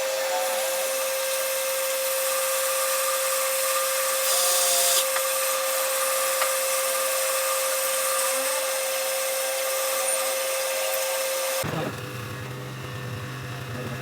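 A power tool running steadily with a constant whine over a loud hiss. About three-quarters of the way through it cuts off and a lower steady hum takes over.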